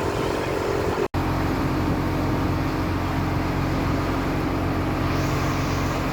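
Filipino outrigger pump boat's engine running steadily, a low hum with a haze of wind and water noise. The sound drops out for an instant about a second in.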